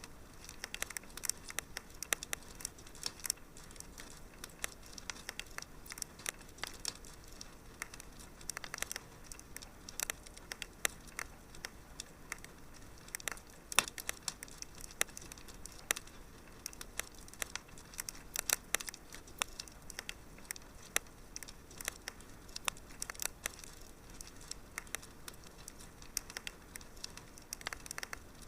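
Wood fire burning in a fireplace: a steady low hiss with many sharp, irregular crackles and pops.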